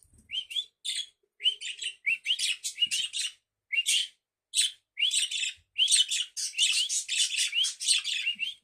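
Pet budgerigar warbling: quick runs of short chirps and little rising squeaky notes, broken by brief pauses at first and nearly unbroken in the second half.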